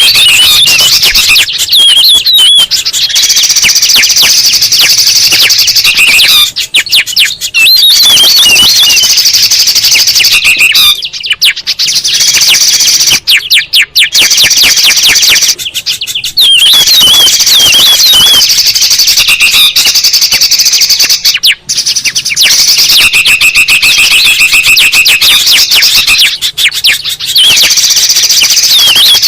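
Bird-lure recording of several songbirds (bulbuls and a spiderhunter) calling at once: a loud, dense tangle of fast chirps and trills, with brief gaps every few seconds.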